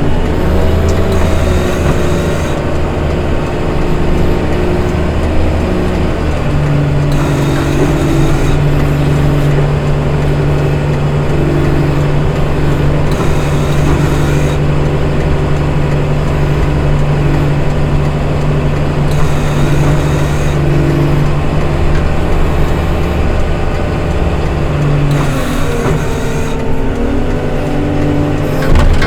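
Diesel engine of a snow-removal vehicle running steadily, its pitch shifting a few times as the load or speed changes.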